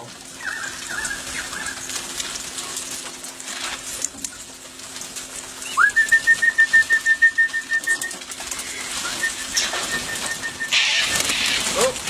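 A bird's alarm call: about six seconds in it rises into a loud, rapid trill of notes on one high pitch that lasts about two seconds, then returns fainter. It warns of a predator, which is taken for a wedge-tailed eagle. A rush of noise follows near the end.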